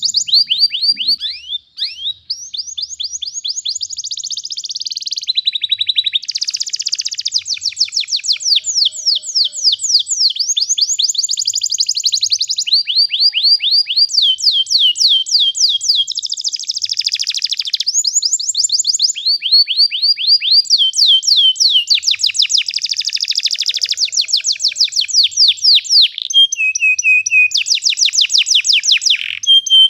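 Domestic canary singing a long unbroken song of rapid trills, each a fast run of repeated notes, switching to a new trill every second or two.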